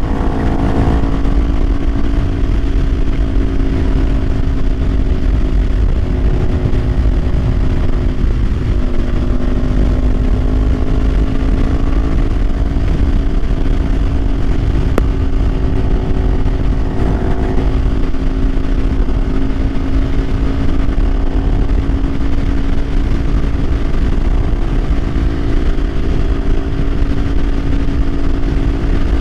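Kawasaki Ninja 500's parallel-twin engine running at a steady cruising speed, its pitch dipping slightly about eight seconds in, over heavy wind rumble.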